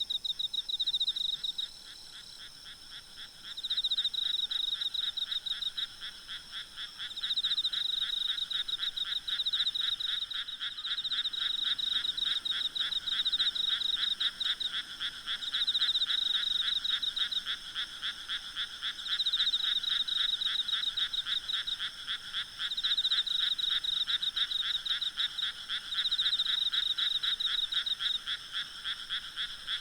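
Chorus of many frogs calling in fast pulsed trains, swelling and easing off every few seconds, over a steady high insect trill.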